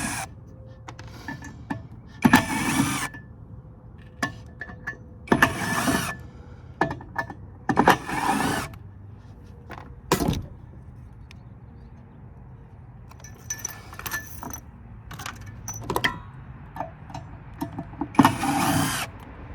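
Hands-on teardown work on metal parts and a heatsink: five short bursts of noise, each under a second, among scattered clicks and knocks of metal being handled.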